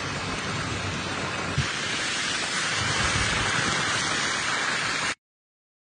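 Heavy rain falling steadily, a dense even hiss of drops, which cuts off suddenly about five seconds in.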